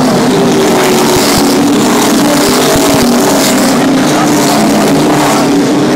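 A pack of NASCAR Camping World Truck Series race trucks running their V8 engines at slow pace speed under caution: a loud, steady drone of several engines together.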